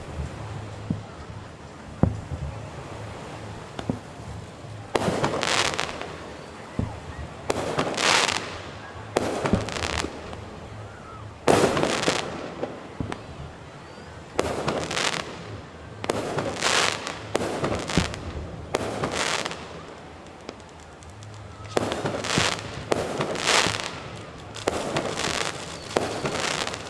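Fireworks bursting: sharp bangs and crackling bursts about a second long, coming every second or two, with a short lull about two-thirds of the way through.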